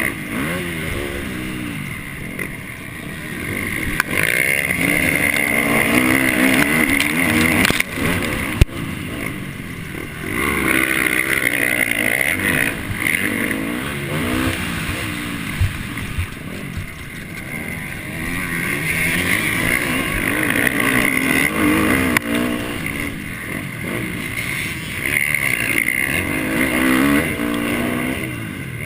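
MX1 motocross bike engine under race throttle: the revs climb and drop back again and again, with a single sharp knock about nine seconds in.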